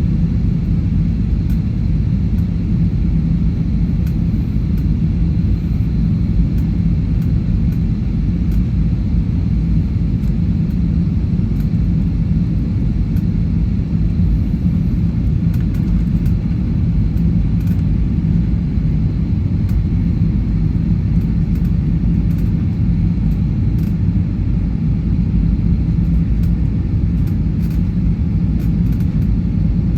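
Airliner cabin noise in flight: a steady low rumble of engines and airflow, with a steady low hum running through it.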